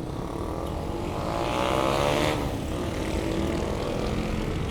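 Steady wind and road rush from riding, with a motor vehicle's engine passing close by. It swells to its loudest about two seconds in, its pitch rising and then dropping as it goes past.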